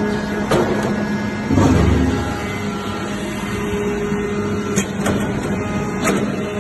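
Automatic metal chips baler running: a steady hum from its hydraulic power unit, with scattered clicks and knocks, and a louder low rumble about two seconds in.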